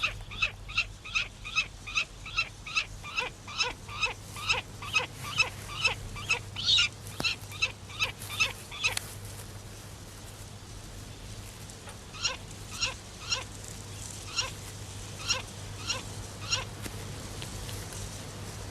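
A bird calling over and over in short harsh notes, about three a second at first, then after a pause of a few seconds slower and more spaced out.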